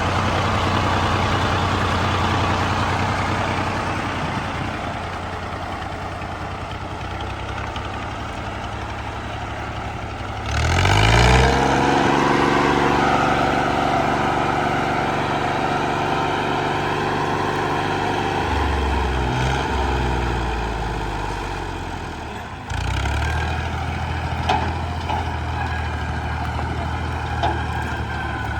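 Fiat 480 tractor's diesel engine running hard under the load of a belt-driven wheat thresher. About ten seconds in the engine note jumps and rises, then holds steady at a higher pitch, and the sound changes abruptly again a little after twenty seconds.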